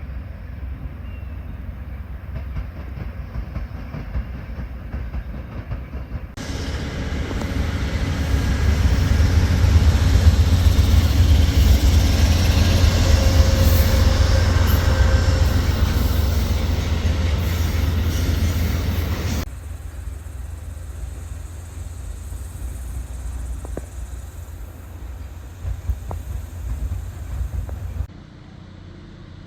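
Amtrak passenger train running past on the tracks: a steady low rumble, with a much louder rushing stretch of cars going by. This stretch jumps in suddenly about six seconds in and cuts off about nineteen seconds in.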